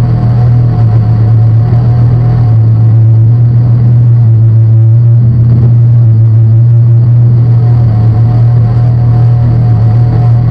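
Loud, steady low drone from analogue drone synthesizers: a thick hum with a gritty, noisy layer above it. Its higher tones drop away in the middle and come back near the end.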